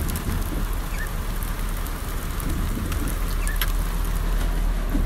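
Heavy rain falling steadily, with single drops striking in sharp clicks, heard through a car's open side window over a steady low rumble.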